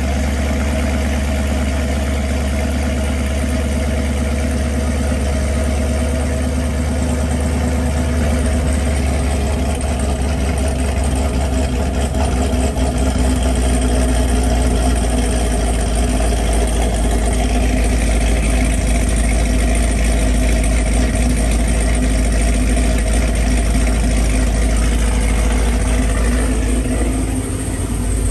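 A 2016 Camaro SS's 6.2-litre LT1 V8, fitted with a stage 2 cam and long-tube headers, idling steadily through its exhaust shortly after a cold start.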